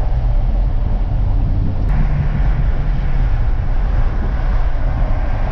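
Hemi V8 car driving, heard from inside the cabin: a steady low engine and road rumble that gets a little fuller about two seconds in.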